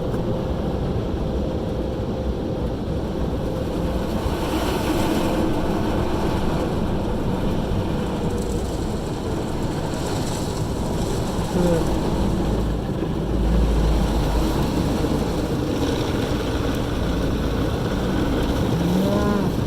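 Steady low rumble and rushing noise inside a car, with three brief surges of hiss.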